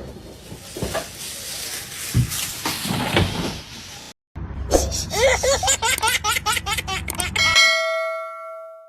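Laughter over background noise. After a brief cut, a short run of quick rising pitched notes, about four a second, ends on a held chord that fades out.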